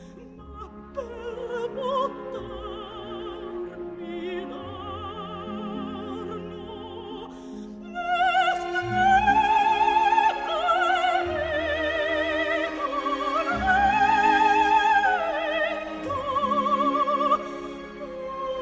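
Soprano singing an opera aria with orchestra, with a wide vibrato. About eight seconds in she grows louder and rises to long, swelling high notes.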